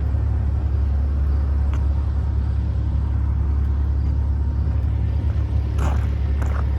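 Steady low rumble of a running vehicle engine, with a few faint clicks near the end.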